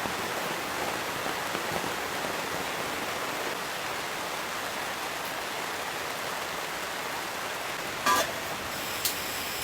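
Steady hiss of heavy rain falling. A brief sharp clatter about eight seconds in and a faint click a second later.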